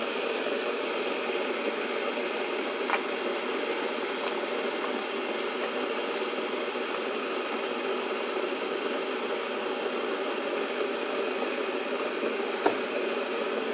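Steady hiss with no change in level. There is a faint click about three seconds in and a sharper click near the end.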